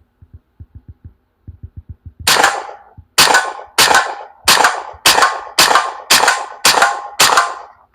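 AEA T30 .30-calibre PCP air rifle firing nine shots in quick succession, a little under two a second, each a sharp crack with a short ringing tail. Faint low clicks come before the first shot.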